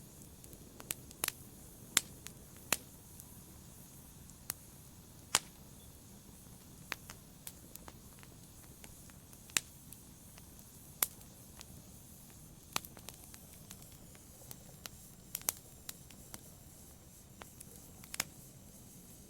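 Wood fire burning in a fireplace: irregular sharp pops and snaps, roughly one a second and uneven in strength, over a soft low hiss.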